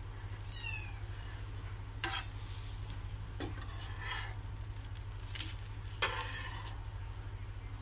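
A thin dosa sizzling on a hot nonstick tawa while a metal spatula scrapes under it to loosen and fold it, with a few short scrapes of the spatula on the pan, the sharpest about two seconds and six seconds in.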